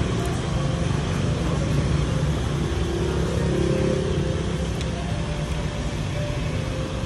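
2014 Toyota Prado engine running at a steady idle after being started by remote smart key, a low, even rumble.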